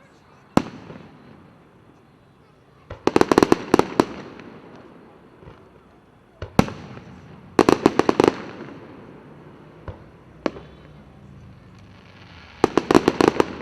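Fireworks display: single booming shell bursts alternate with rapid volleys of quick bangs, three volleys in all, each report trailing off in a rumbling echo.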